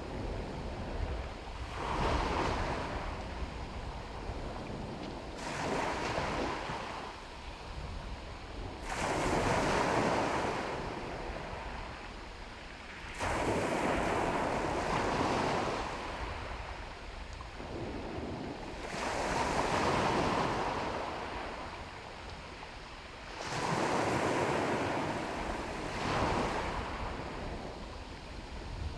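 Sea waves washing onto a shore, each surge swelling and fading every four to five seconds.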